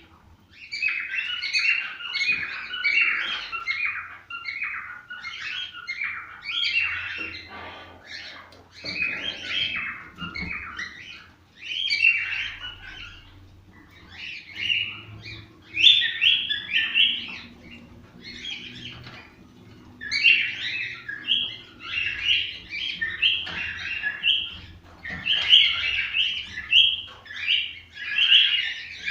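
Cockatiels singing and chirping in a continuous run of short repeated whistled notes, with brief pauses between phrases.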